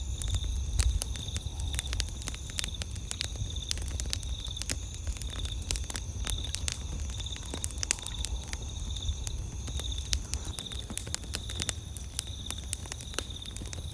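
Wood campfire crackling, with frequent sharp irregular pops and snaps over a low rumble. Behind it runs a steady, high-pitched pulsing trill of night insects.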